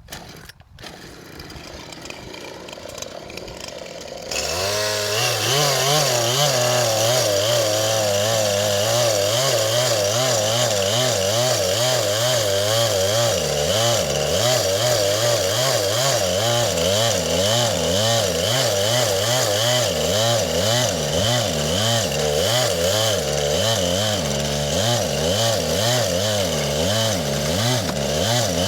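Gasoline chainsaw's two-stroke engine. After a few quieter seconds it comes in loud about four seconds in and runs at full throttle with a steadily wavering pitch, cutting into the trunk of a tree.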